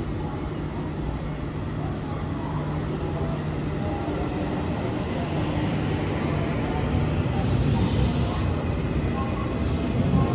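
JR West 283 series limited-express electric train pulling out of the platform. Its motor and wheel noise grows louder as it gathers speed, with a short hiss about three-quarters of the way in.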